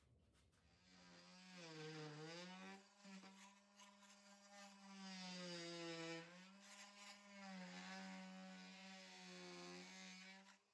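Electric power saw motor running, its pitch dipping twice and recovering as it is loaded, as when it cuts through flooring boards. It stops abruptly near the end.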